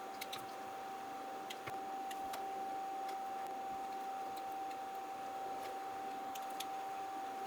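Scattered light clicks and taps of small tools and parts being handled during a phone battery replacement, over a steady high-pitched tone.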